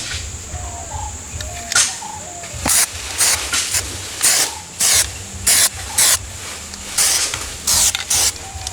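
A pressurised spray gives about a dozen short hissing bursts, each lasting a fraction of a second, at uneven intervals.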